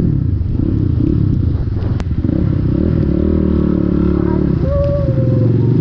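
SMZ Cross X 250 SE dirt bike engine running as the bike is ridden along the road, with a sharp click about two seconds in and a brief higher tone near the end.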